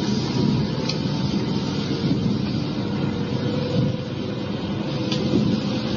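Interior sound of an electric multiple-unit train running, recorded on cassette tape: a steady rumble of wheels and running gear with a faint steady hum from the motors. Two faint clicks come about a second in and again near the end.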